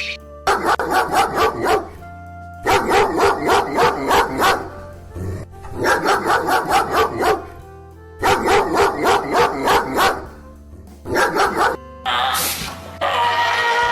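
A dog barking in quick runs of several barks, about five barks a second, five runs with short pauses between, over background music. Near the end a different, noisier sound takes over.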